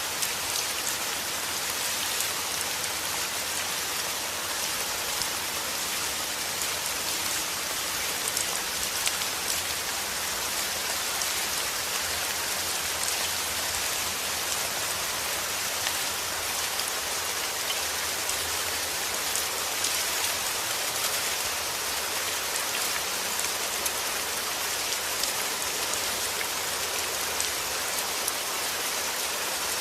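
Steady heavy rain: a dense, even hiss with scattered sharper drop taps.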